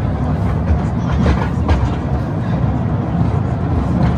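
Toy train running, a steady low rumble with a couple of sharp clacks a little over a second in.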